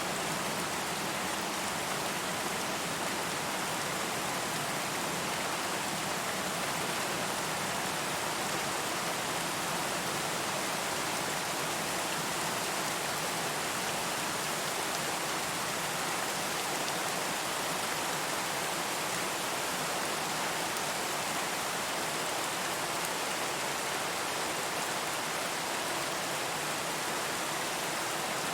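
Steady rain falling, an even hiss of many drops without breaks or thunder.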